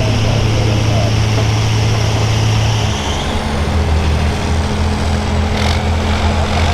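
Farm pulling tractor's engine running loud and steady, its pitch dropping to a lower note about three seconds in.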